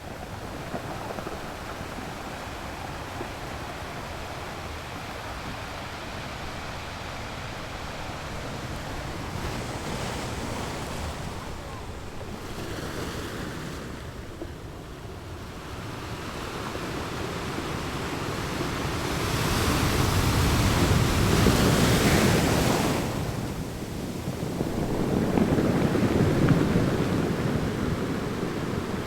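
Ocean waves rolling in and breaking on a shore, a steady wash of surf that swells and ebbs. The biggest breaks come past the middle and again near the end.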